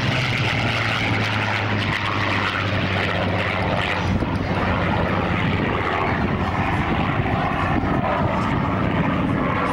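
Aircraft flying past: steady engine and airscrew noise, its low tone dropping slightly in pitch just at the start.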